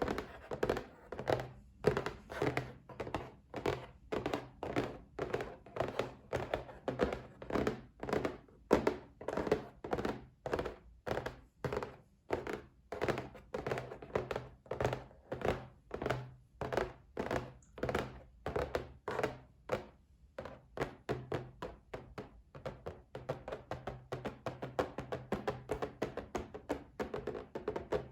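Fingers tapping on a box: a continuous run of short, dull knocks, several a second, growing denser in the last third.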